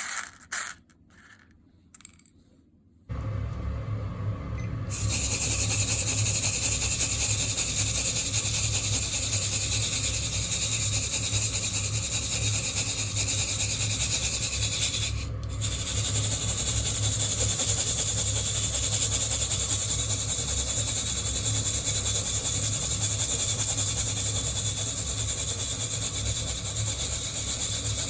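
Coffee beans clicking against a wire-mesh hand roaster, then a steady low burner hum comes on about three seconds in. From about five seconds the beans are shaken continuously in the mesh, an even rasping rustle, with one short pause about halfway.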